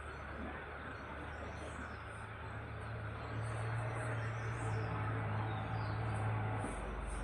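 Small birds chirping in short high calls over a steady background rush, with a low steady motor hum that swells a few seconds in and drops away near the end.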